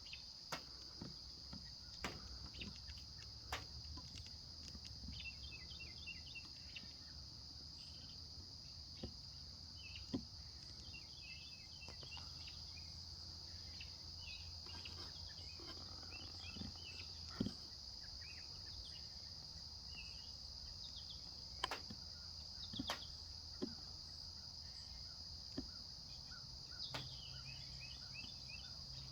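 Steady, high-pitched chorus of insects, with scattered faint clicks and short chirps over it.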